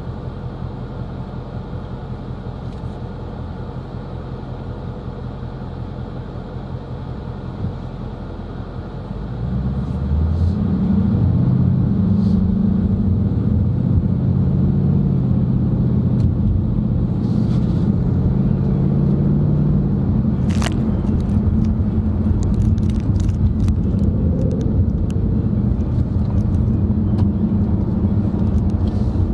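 Car engine and road noise heard from inside the moving car, a steady low drone that grows louder about nine seconds in, with the engine's low hum shifting as it picks up. Faint scattered clicks come through in the second half.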